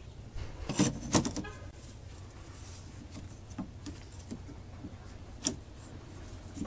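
Sharp metallic clinks and a short rattle of metal tool parts being handled, a cluster about a second in and one more single clink near the end, over a low steady hum.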